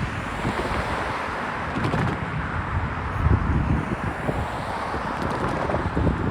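Freight cars of a BNSF manifest train rolling past with a steady rumble of steel wheels on rail, with wind buffeting the microphone.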